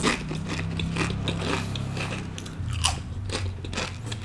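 Crunching and chewing of cheese nachos (crisp tortilla chips) close to a microphone, a quick irregular run of sharp crunches with each bite.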